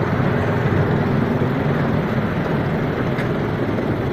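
Miniature railway train running, heard from aboard: a steady rumble of wheels on the track, with one faint click about three seconds in.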